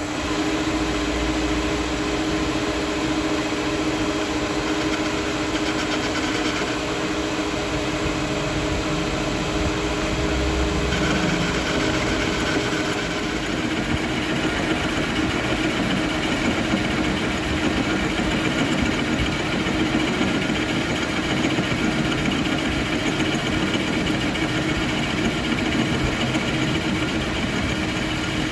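A workshop machine running steadily just after being switched on, with an even hum.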